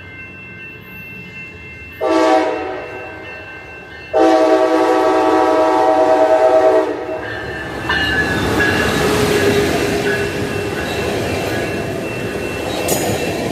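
Passenger train horn sounding a short blast about two seconds in and a long blast from about four to seven seconds, then the train passing close by with loud rushing wheel and rail noise.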